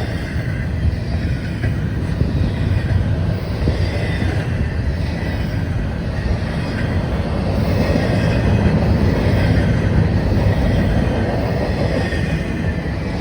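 Freight train rolling past: steady noise of the cars' wheels on the rails, with faint high squeals near 2 kHz.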